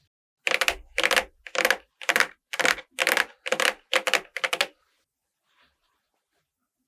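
A makeup brush worked against a watermelon's rind in about nine quick, regular strokes, roughly two a second, each a short scratchy rustle of fine ticks. The strokes stop just before five seconds in.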